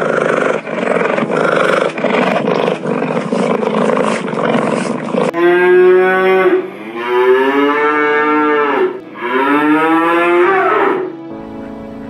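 Cattle mooing: three long, loud moos in a row, starting about five seconds in, each rising and falling in pitch. Before them, a loud, rough, noisy sound with irregular pulses.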